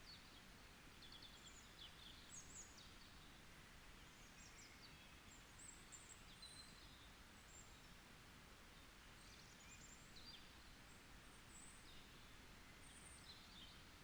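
Faint forest birdsong: scattered short, high chirps and brief trills from several small birds, over a steady low hiss of ambient noise.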